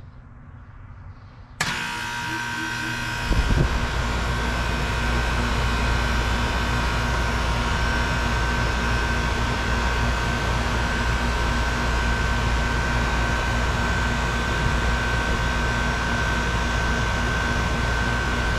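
2003 Lennox Merit Series heat pump starting up in heat mode. It kicks on suddenly about a second and a half in, and a deeper hum joins about two seconds later. The unit then runs steadily with a constant high whine over a broad rushing noise.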